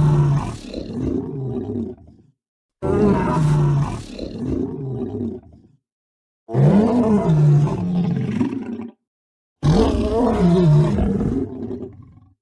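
Four separate roar sound effects of a large animal, each about three seconds long, starting sharply and trailing off, with dead silence between them.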